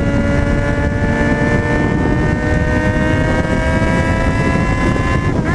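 Yamaha XJ6's 600 cc inline-four engine pulling steadily under way, its note slowly rising as the bike gains speed, over heavy wind rumble on the microphone. The pitch dips briefly near the end.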